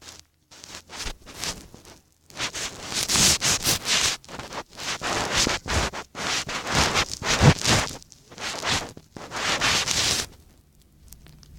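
Hands squishing, stretching and kneading sticky slime, an irregular scratchy crackling and squelching that starts about two seconds in and stops shortly before the end.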